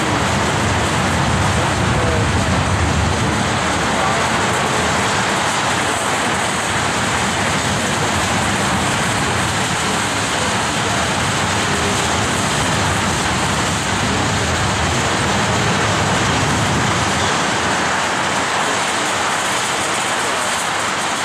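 Tank cars of a freight train rolling past on steel rails: a steady noise of wheels on track. The deep rumble thins out near the end.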